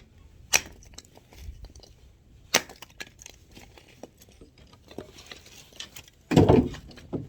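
Axe striking firewood: two sharp cracking blows a couple of seconds apart, then a louder, deeper thud about six seconds in and a smaller knock near the end.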